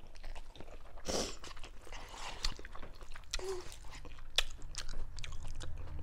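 Close-miked chewing of a mouthful of instant ramen noodles, wet mouth sounds with a few sharp clicks scattered through.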